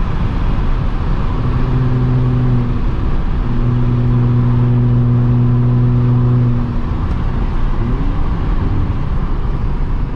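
Audi S4 B8.5's supercharged 3.0-litre V6 running through an AWE exhaust on test pipes while driving, over steady road noise. A steady exhaust drone holds for about a second, breaks, then holds for about three seconds before easing off. Near the end the engine pitch rises again. The exhaust sounds a little louder than the ECS exhaust with its valves open.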